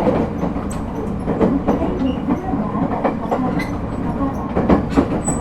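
Ride noise inside an Echigo TOKImeki Railway ET127 series electric train under way: a steady low rumble from the wheels on the rails, with scattered sharp clicks from the track.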